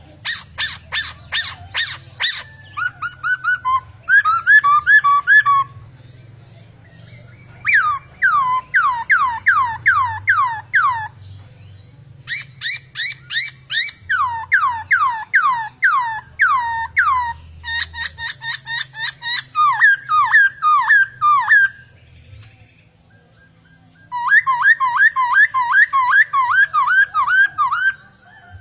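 Caged poksai (laughingthrush) singing hard, its song full of mimicked phrases: loud series of rapid, down-slurred whistled notes repeated many times over, in four or five long bursts separated by short pauses.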